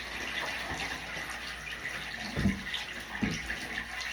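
Shower water running steadily. Two dull thumps come about halfway through and just after.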